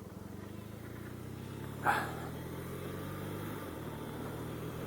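BMW R1200RT motorcycle engine running at low, steady revs, its note shifting slightly a little before the end. A short, sharp sound cuts in briefly about two seconds in.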